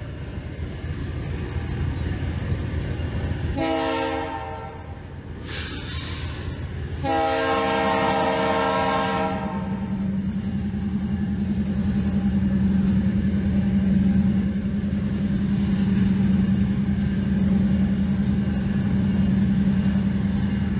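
Diesel freight locomotive approaching, sounding its horn twice: a short blast about four seconds in and a longer one about seven seconds in. Under it the engine rumbles, and a steady low drone comes in with the second blast and grows louder as the train nears.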